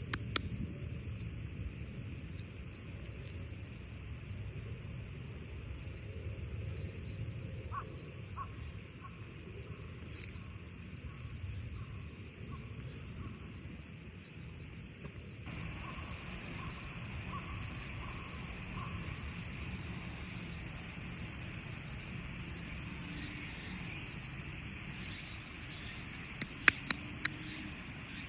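Autumn crickets singing in a steady, continuous high trill over a low rumble, with the background changing abruptly about halfway through. A few sharp clicks sound near the end.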